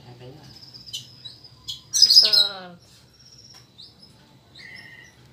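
Small birds chirping and whistling in short, high notes, with one louder call about two seconds in whose pitch falls.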